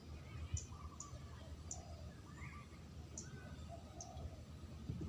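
Spotted dove cooing faintly in soft, short low notes, the kind of call used as a lure, with sharp high ticks in small groups between the coos.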